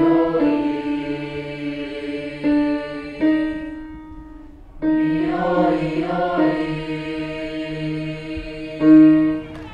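Youth choir singing a vocal warm-up on held vowels in two long phrases, with a short breath pause a little over four seconds in.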